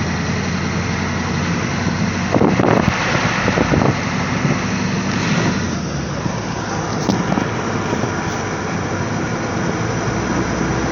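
1986 Ford F-250's 6.9 L IDI V8 diesel running steadily as the truck drives, with a few knocks and rattles about two to four seconds in.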